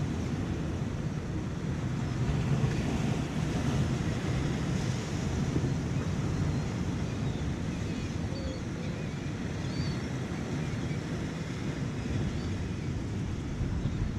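Surf washing against a rocky shore, with wind buffeting the microphone.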